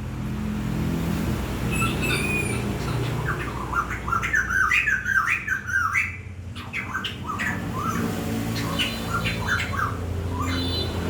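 Birds calling in quick runs of short squawking chirps, densest about halfway through and again near the end, over a low steady hum.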